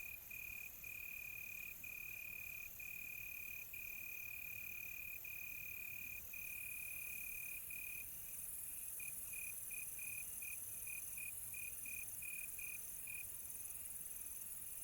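Crickets singing: one cricket gives a high, steady trill in long stretches with brief breaks, then switches to quick short chirps for several seconds. A higher, hissing insect chorus runs behind it.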